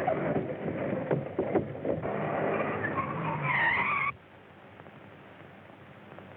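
A vehicle running with clattering, ending in a high brake squeal for about a second. The sound cuts off suddenly a little after four seconds, leaving only the steady hiss of an old film soundtrack.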